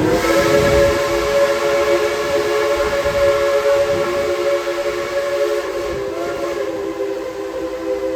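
Steam locomotive's chime whistle blowing one long blast, a chord of several steady tones, wavering slightly about six seconds in.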